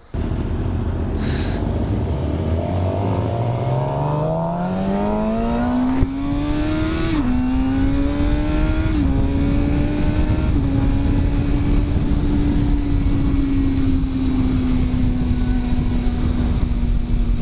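2015 Suzuki GSX-R 750's inline-four with an Akrapovic slip-on exhaust pulling away: revs climb, drop at three quick upshifts, then hold steady at cruising speed under a constant rush of wind and road noise.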